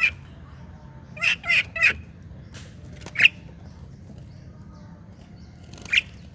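Short, sharp bird calls: one at the start, three in quick succession just over a second in, another at about three seconds, and one more near the end.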